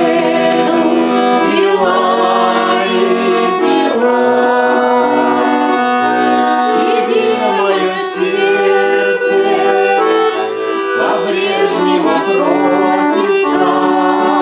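Accordion playing a folk-song melody over sustained chords.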